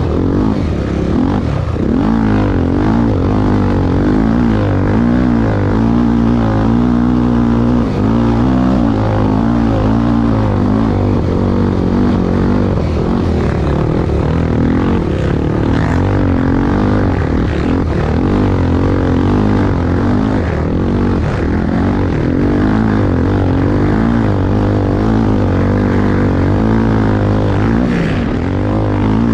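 Honda XR250 Tornado single-cylinder dirt-bike engine running under race load, its pitch wavering up and down continuously with the throttle.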